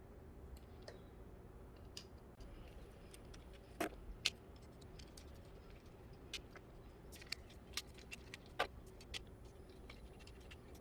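Scattered light clicks and taps of a screwdriver, small screws and plastic panel parts being handled while a camping fridge's control panel is unscrewed and taken apart, with two sharper knocks about four seconds in.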